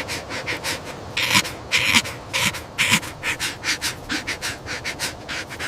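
A rapid, irregular series of short breathy huffs, several a second, like panting.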